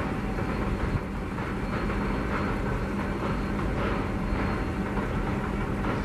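WDP4 diesel-electric locomotive running steadily with a constant low hum as it hauls a passenger train past, mixed with the rumble of the coaches on the rails.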